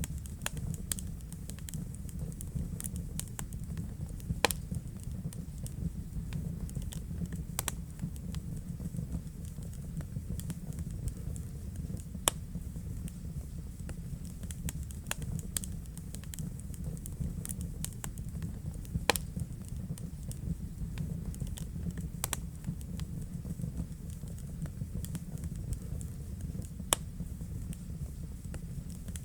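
Wood fire burning in a fireplace: a steady low rumble with irregular crackles and sharp pops, a handful of them much louder than the rest.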